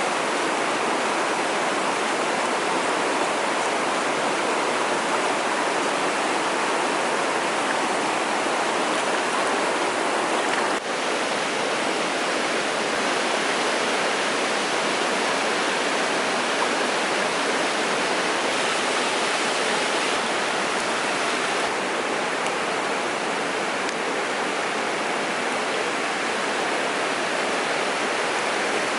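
Mountain stream water rushing steadily over rocks, a dense, even noise that dips briefly about eleven seconds in.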